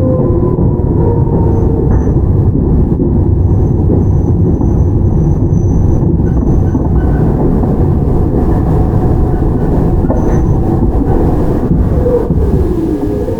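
Toyama Chiho Railway 17480-series field-chopper electric train running on the line: a steady, loud rumble of wheels and running gear. A tone glides down near the start, a faint thin high squeal comes and goes in the middle, and a short gliding tone returns near the end.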